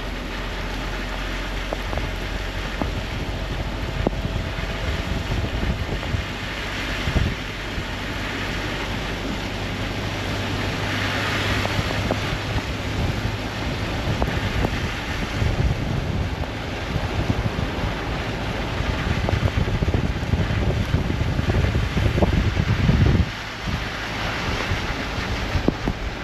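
Strong gusty wind buffeting the microphone over a steady rushing noise, the buffeting swelling and then dropping off suddenly near the end.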